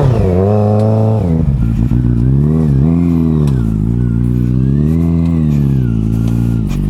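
Motorcycle engine revved up and down repeatedly under load. The revs climb in the first second, drop sharply, then swell and fall again several times.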